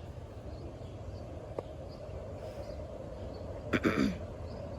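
Outdoor ambience at a railway station: a steady low hum with faint bird chirps, and a brief louder sound about four seconds in.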